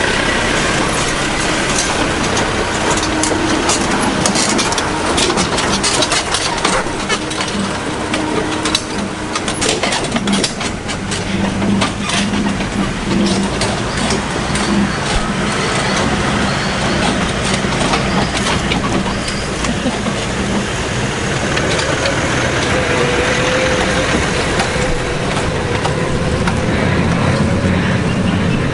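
Four-wheel-drive vehicle driving along a rough dirt track: engine running under a steady noise of tyres and body, with many sharp clicks and knocks, thickest between about four and ten seconds in.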